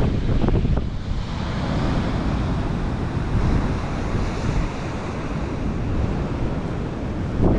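Strong wind buffeting the microphone in uneven gusts, over the wash of sea surf.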